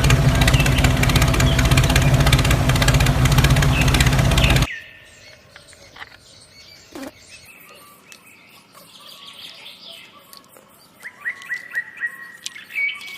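A loud engine-like running noise with a steady low hum that cuts off abruptly about four and a half seconds in, followed by quiet outdoor background with birds chirping, a quick run of chirps near the end.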